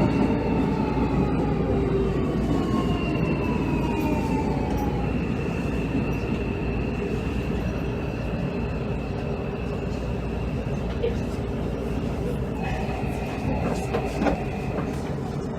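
Inside a Hanshin 5700 series "Jet Car" commuter train slowing into a station: low rumble of the wheels on the rails, with the traction motors' whine falling in pitch over the first few seconds and then holding a steady high note while the sound eases as the train slows.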